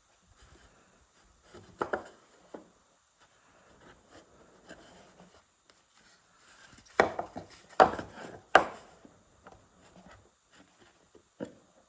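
Knocks and clacks of a track saw and its guide rail being handled and shifted on a wooden door: a few light taps, then three sharp clacks a little under a second apart midway, and one more tap near the end. The saw's motor is not running.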